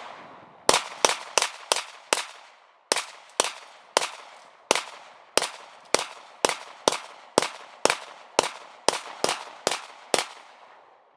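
A Glock 19 9mm pistol firing a long string of about twenty shots at a steady pace of roughly two a second. Each shot is a sharp crack with a short echoing tail.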